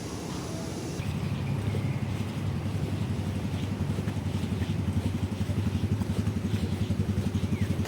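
A motor running with a steady, fast, even throb that starts about a second in.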